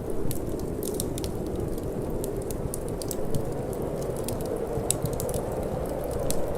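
Wood fire in a fireplace crackling with frequent sharp, irregular pops, over a steady low rush of wind.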